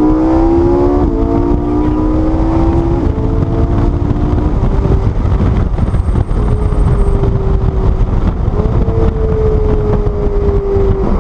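High-revving car engine accelerating hard, its pitch climbing and dropping at gear changes about one and three seconds in, then running loud and rough.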